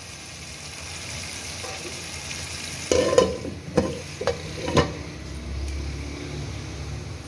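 Chicken pieces sizzling in hot oil in a pot, then a metal lid clattering against the pot in a few knocks as it is set on, about three to five seconds in, the loudest sound here; the sizzling goes on more quietly under the lid.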